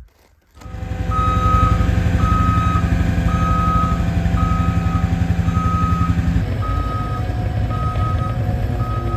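Skid steer running with its reversing alarm beeping about once a second, the engine and beeps starting suddenly about half a second in.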